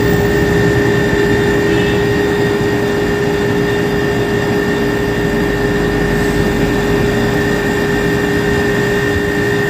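Commercial beverage refrigerator running while R134a refrigerant is charged into it: its compressor and newly fitted condenser fan make a loud, even whir with a steady hum and a thin high whine.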